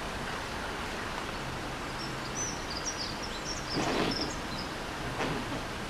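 Steady outdoor background hiss, with small birds chirping high and briefly in the middle and a short soft rustle about four seconds in.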